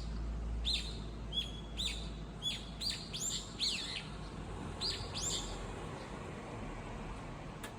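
A single bird calling over and over: short, sharp, high calls that sweep quickly downward, about nine of them in quick irregular succession, stopping a little past halfway.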